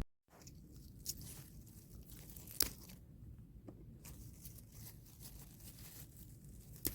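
Faint rustling and crackling, broken by a few sharp snaps, the loudest about two and a half seconds in.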